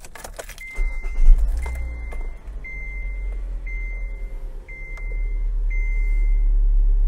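A 2015 Kia Forte's four-cylinder engine starts about a second in with a short loud rumble, then idles with a steady low hum. Over it the dashboard warning chime sounds six times, about once a second, a single high tone each time.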